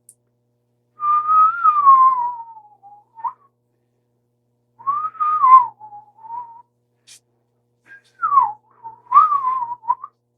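A person whistling three short phrases, each a single clear note that glides up and down in pitch, with short pauses between them.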